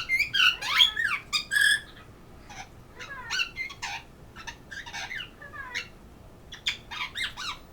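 Pet parrot squawking and squeaking in a run of short, sharp calls with quick slides in pitch, loudest in the first two seconds, then softer bursts of calls through the rest.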